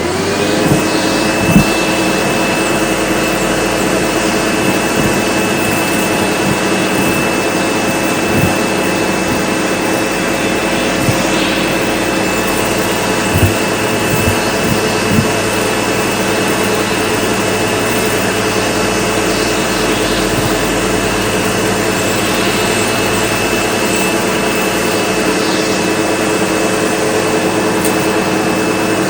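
SEBO Automatic X4 bagged upright vacuum cleaner switched on, its motor spinning up and then running steadily with a whine. A few sharp clicks of debris being sucked up, the loudest about a second and a half in.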